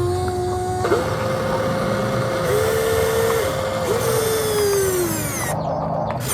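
Electric motor whine of radio-controlled construction machinery, likely the RC excavator. The pitch jumps and steps as the load changes, then slides down a few seconds in, with abrupt breaks between takes.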